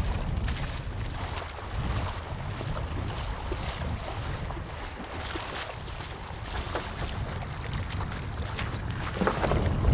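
Wind buffeting the microphone in a steady low rumble, with scattered small knocks and rustles, a little louder near the end.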